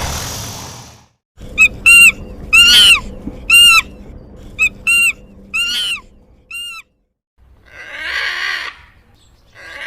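A bird calling in a series of about ten short, sharp, high-pitched calls, some in quick pairs, over a faint steady hum. A loud, noisy animal sound fades out about a second in, and rougher, hoarser calls come near the end.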